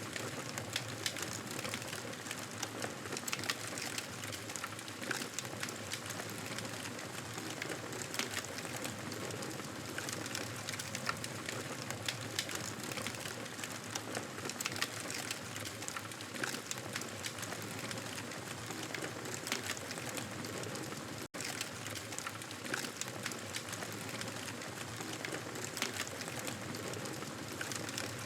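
Campfire burning with a steady hiss and many small sharp crackles and pops. The sound cuts out for an instant about three-quarters of the way through.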